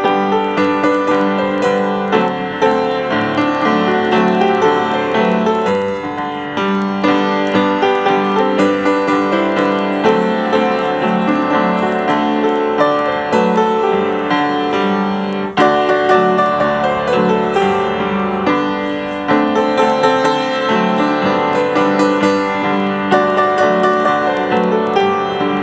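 Piano music with held chords and a melody over them.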